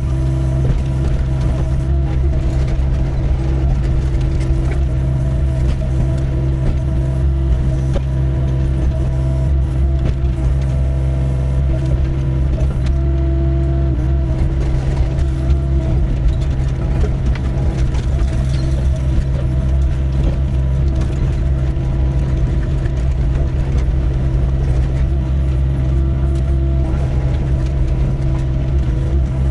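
Doosan 55W wheeled excavator's diesel engine running steadily under load while digging, with irregular knocks and scrapes throughout.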